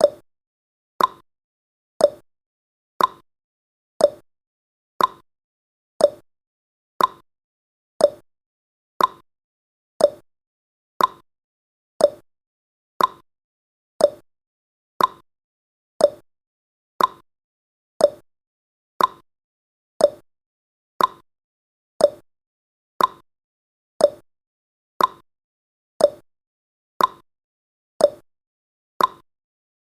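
Countdown timer tick sound effect: a short, sharp click once every second, in an even, unbroken rhythm.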